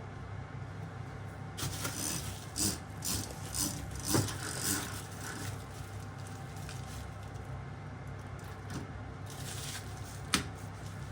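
Light clicks and clatter of hard parts being handled, bunched in the first half, with one sharp click near the end, over a steady low hum.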